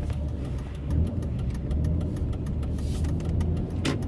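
Car engine and road rumble heard from inside the cabin, a steady low drone, with a sharp knock a little before the end.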